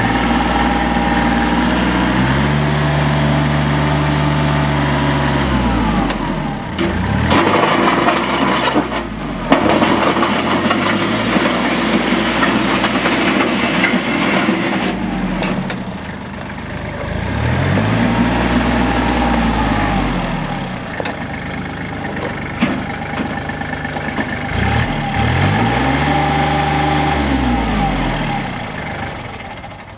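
Kubota L3430 tractor's diesel engine being revved up, held high for a few seconds and let back down, about three times, running at lower speed in between.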